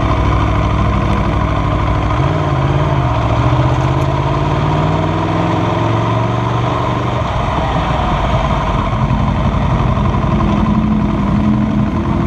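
Aprilia Tuono V4R's V4 engine running at low revs as the motorcycle rolls slowly. Its note steps up about two seconds in and then holds steady.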